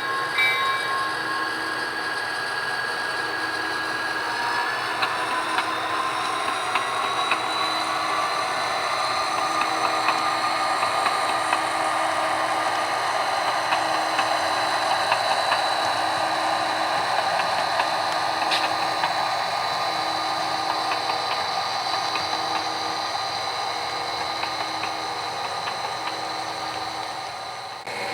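HO scale model diesel locomotive's sound decoder playing the engine running under load as the train pulls away, heard through the model's small onboard speaker. The engine pitch rises slowly about five seconds in as it revs up.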